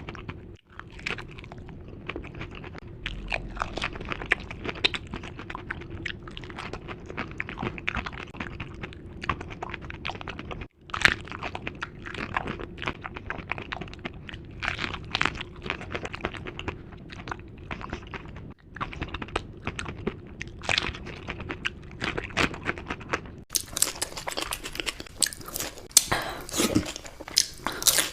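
Chewing and crunching of crisp dahi puri, the hollow fried puri shells filled with yogurt, in a steady run of irregular bites and chews. The crunches get sharper and louder in the last few seconds.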